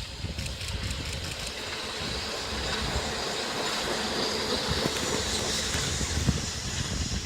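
EF63 electric locomotive running on the track: steady rail noise from its wheels and running gear, with a few clicks early on, growing gradually louder.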